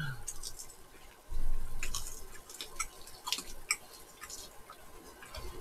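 Close chewing of fried chicken, with scattered small crunchy clicks, and a dull low rumble about a second and a half in.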